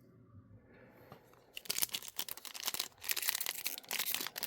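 Wrapper of a pack of trading cards being torn open and crinkled. A dense, rapid crackling starts about one and a half seconds in.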